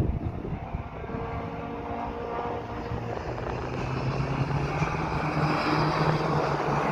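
An engine drone grows steadily louder as a vehicle approaches, its pitch fairly even, with wind noise on the microphone.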